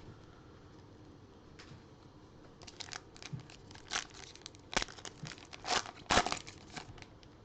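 A trading card pack wrapper being torn open and crinkled by hand: a run of sharp crinkles and tearing sounds starting about two and a half seconds in, the loudest near the end.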